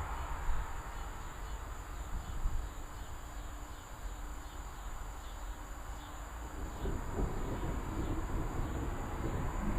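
Distant thunder rumbling from a thunderstorm a few miles off, swelling about seven seconds in, over faint steady insect chirping.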